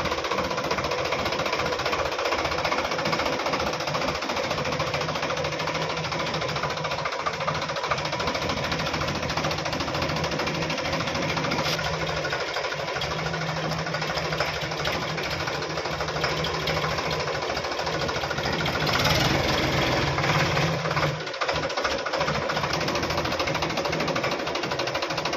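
Sonalika DI 750 tractor's diesel engine running steadily with a knocking beat, louder for about two seconds about three-quarters of the way through.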